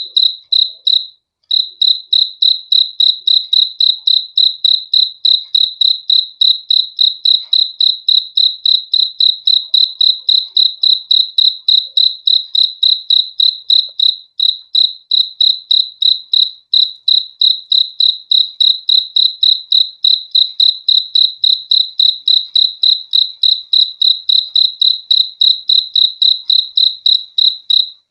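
A cricket chirping close by: a loud, even train of short, high chirps, about four a second, with a brief break about a second and a half in.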